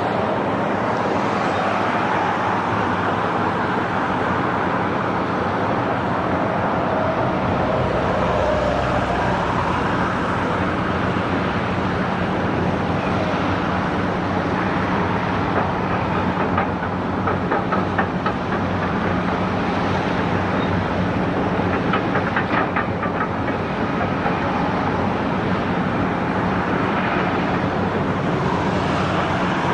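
Dump truck engine running steadily under load, with a run of rapid rattling clicks through the middle.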